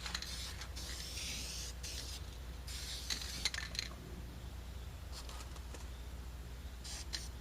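Aerosol can of self-etching primer hissing as it is sprayed in bursts: a long spray over the first couple of seconds, another about three seconds in, then brief puffs near the end.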